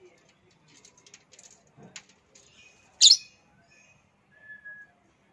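Small birds chirping, with one loud, sharp, downward-sweeping chirp about three seconds in and a short steady whistled note shortly after.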